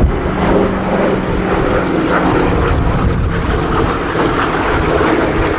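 Piston-engined propeller aircraft flying in a display, its engine note a loud, steady drone.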